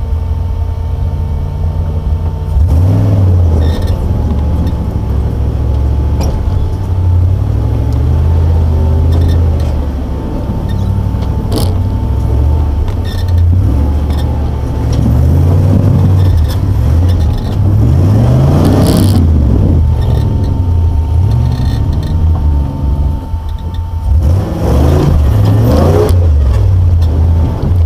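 GM LS2 6.0-litre V8 in a Jeep Wrangler YJ, revving up and down repeatedly under load as it climbs a steep, rutted dirt trail.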